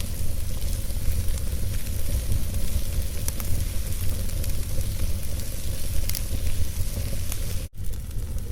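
Wood logs burning in a fireplace: a steady low rumble of the fire with scattered sharp crackles and pops. The sound drops out for an instant near the end.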